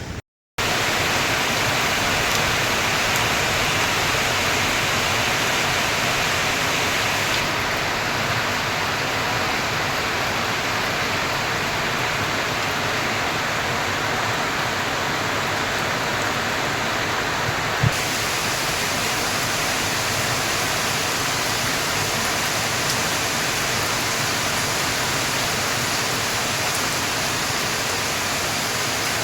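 Heavy rain falling as a steady rush of water noise, with a brief dropout at the very start and a single click about 18 seconds in.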